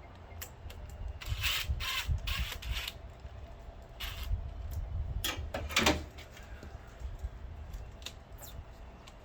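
Work noises of hand tools and parts being handled: a run of short scrapes about a second in, scattered clicks, and a louder knock just before six seconds.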